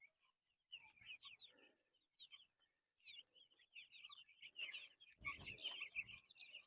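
A flock of young Cornish Cross meat chicks peeping busily while they feed, many short high chirps overlapping, growing louder toward the end. A brief low rustling noise joins in about five seconds in.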